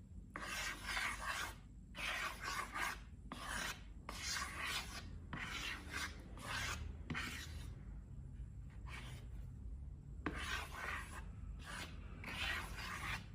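Repeated rubbing and scraping strokes of slime-making materials being worked by hand, about a dozen strokes of up to a second each, with a pause of a few seconds midway.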